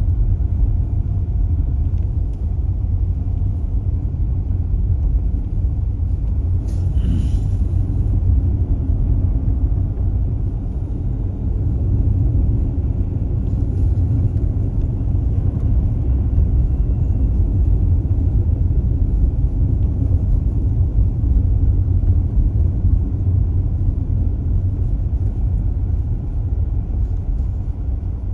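Steady low rumble of a Tesla Model S driving on a snowy road: tyre and road noise with no engine note, as the car is electric. A brief hiss comes about seven seconds in.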